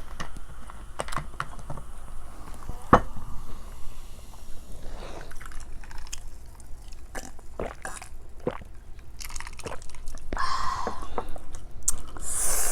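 A person biting and chewing crunchy food close to the microphone, with sharp crunching clicks throughout and a louder, noisier burst near the end.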